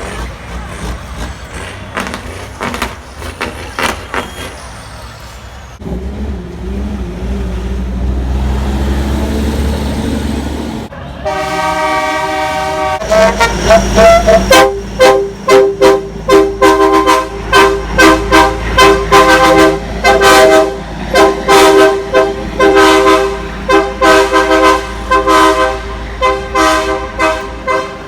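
Truck horns sounding at a truck show. A low steady rumble runs for a few seconds, then a held multi-note horn chord comes in about eleven seconds in. From there on the horns sound in rapid, rhythmic loud blasts over a deep rumble.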